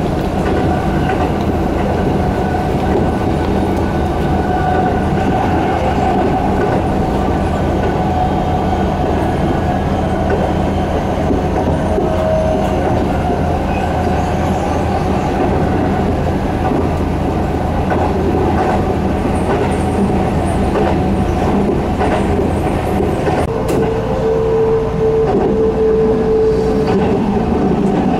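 Keihan electric train running at speed, heard from inside the passenger car: a steady rumble of wheels on rail with a constant whine over it. A few sharp clicks come in the last several seconds, where a second, lower tone joins for a few seconds.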